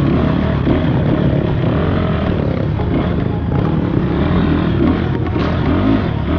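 Dirt bike engine running on an off-road trail, its pitch rising and falling with the throttle, with a few knocks about five seconds in.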